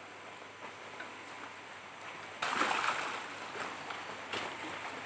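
Water splashing and sloshing, becoming suddenly louder and choppier about two and a half seconds in.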